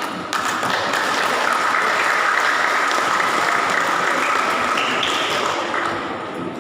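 Audience applauding, starting suddenly and fading near the end, with a steady high tone over it that steps up in pitch about five seconds in.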